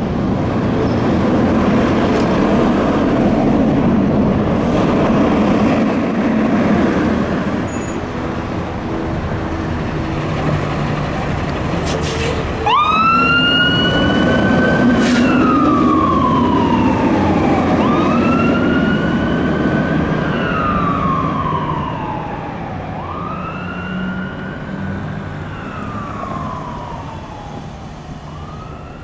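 Fire engine's diesel engine running loudly, then about halfway through its siren comes on with a sudden start. The siren wails in cycles about five seconds apart, each rising quickly and falling slowly, three times, and fades toward the end.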